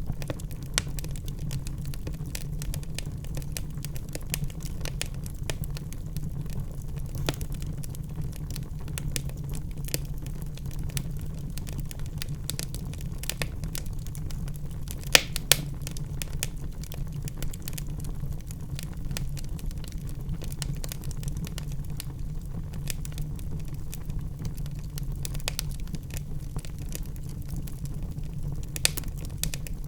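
Wood fire burning in a fireplace: a steady low rumble of flames with irregular crackles and pops from the logs, the sharpest two pops coming close together about halfway through.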